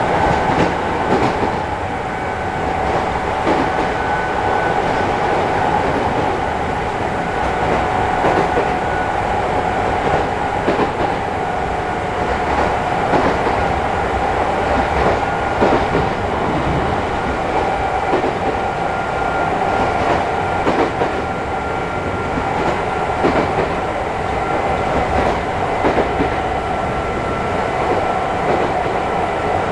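Onboard running sound of a Chichibu Railway 5000 series electric train (ex-Toei Mita Line 6000 series, resistance control) at steady speed. A continuous rumble with a steady motor and gear hum drifts slightly in pitch, and the wheels clack over rail joints now and then.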